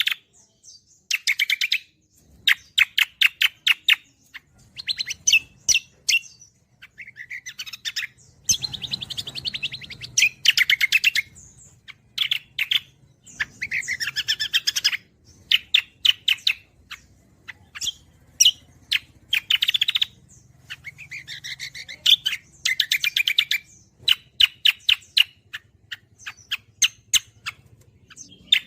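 Cucak kombo songbird singing in its full-form 'gacoran' song: phrases of rapid, evenly repeated high notes, one after another with short breaks between them. A faint low hum runs beneath from a few seconds in.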